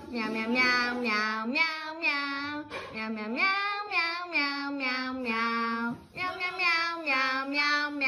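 A child's voice singing a tune, one syllable after another with some notes held and a rise in pitch about three seconds in.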